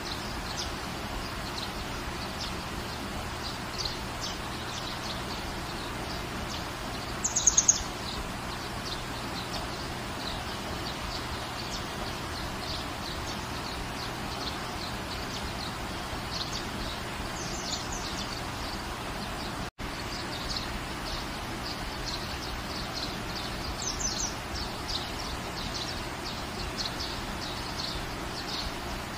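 Steady rain falling, with birds chirping throughout and a louder quick run of bird calls about seven seconds in. The sound cuts out for an instant about two-thirds of the way through.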